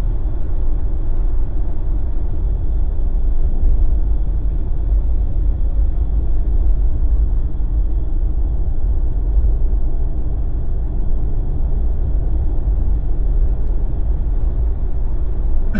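Steady road and engine rumble inside a moving Jeep, with no breaks or sudden sounds.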